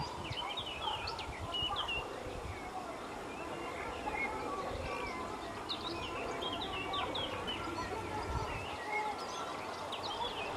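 Small birds chirping in many short, quick calls, scattered throughout and thinning briefly in the middle, over a steady low background noise.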